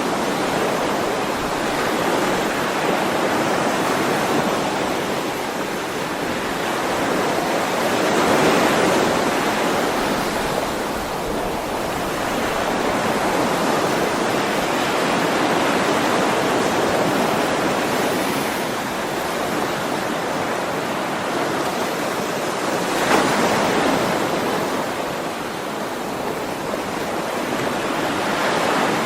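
Ocean waves breaking and washing on a shore, a continuous rush that swells and eases every few seconds, with a louder wave about 23 seconds in.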